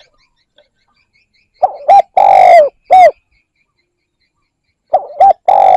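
Spotted dove cooing: after a short quiet, a phrase of two short coos, a longer drawn-out coo and a short closing coo. A second phrase starts near the end.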